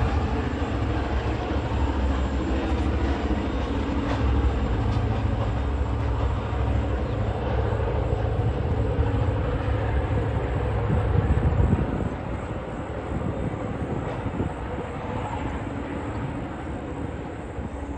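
Loaded coal train's hopper wagons rolling away along the track: a steady low rumble of wheels on rail that drops off about twelve seconds in, leaving a fainter low rumble.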